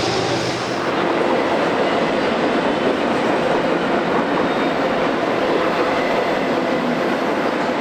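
Intermodal freight train cars rolling past, a steady noise of steel wheels on rail. A low locomotive engine hum fades out within the first second.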